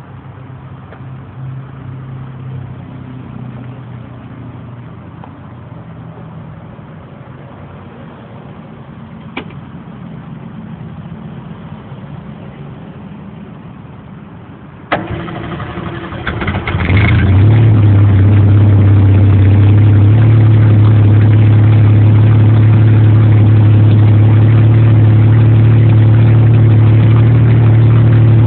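A low hum for about half the time, then a Ford straight-six is cranked over for about two seconds and catches. It settles into a loud, steady idle through its exhaust.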